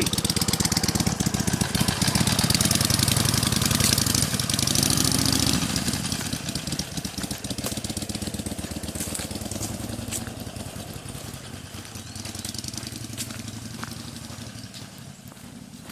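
Harley-Davidson Iron 883N's air-cooled V-twin engine running, with a brief rise in pitch about five seconds in; after that it fades steadily.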